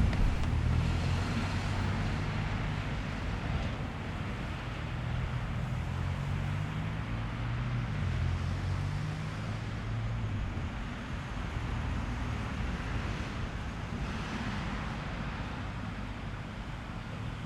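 Strong wind buffeting an action camera's microphone: an uneven low rumble that is strongest for the first ten seconds or so and then eases, over a steady rushing wind.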